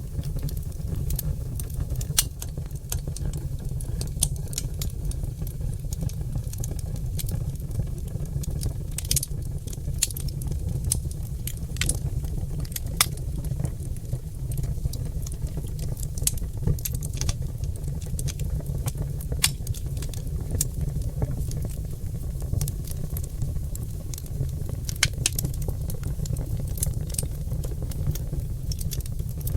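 Oak log fire burning in a fireplace, crackling with irregular sharp pops over a steady low rumble of the flames.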